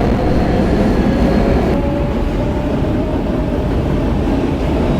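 Steady rumble of an R160B Siemens subway car running through the tunnel, heard from inside the car. A high propulsion tone cuts out a little under two seconds in as the train slows for the next station.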